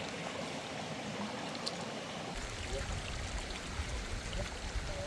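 Steady running water, like a stream, with a low rumble joining about two seconds in.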